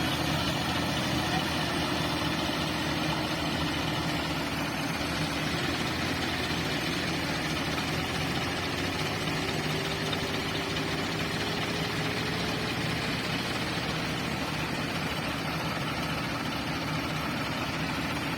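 Ford tractor's diesel engine running steadily, a low even drone with a faint tone that rises slowly in pitch through the middle.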